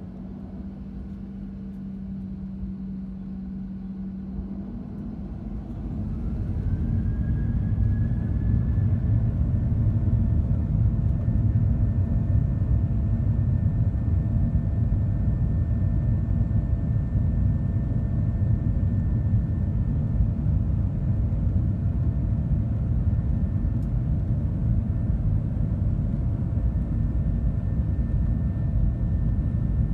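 Boeing 737-700's CFM56-7B jet engines spooling up to takeoff thrust, heard from inside the cabin. A steady low hum gives way about five seconds in to a growing rumble and a rising whine that settles into a steady high tone, then a loud, even rumble as the aircraft rolls down the runway.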